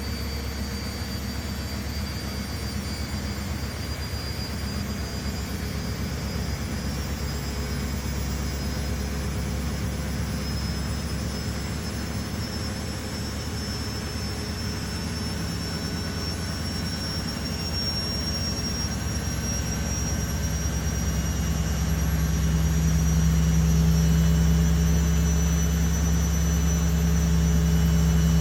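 Washing machine spinning its drum: a steady low hum with a thin high whine that climbs slowly in pitch, growing louder over the last third as the spin speeds up.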